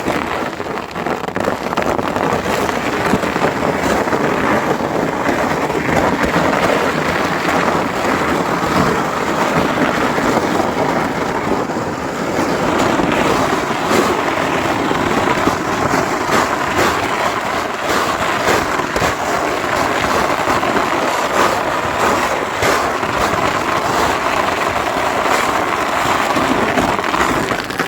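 A sled sliding fast down a hill over icy, sleet-crusted snow: a continuous loud scraping hiss full of rattling crunches as the sled runs over the ice crust, easing a little about halfway and cutting off sharply at the end.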